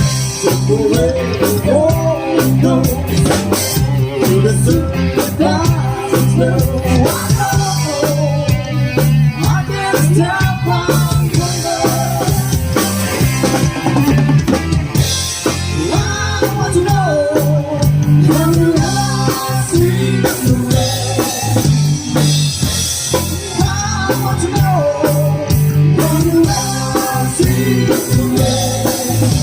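Live band playing rock music: drum kit, bass and electric guitar under a melodic lead line.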